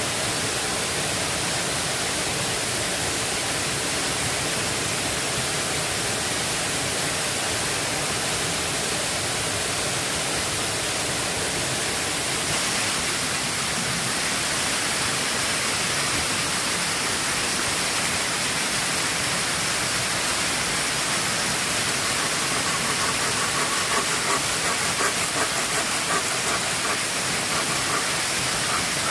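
Heavy rain falling steadily, an even loud hiss, with a run of quick ticks near the end.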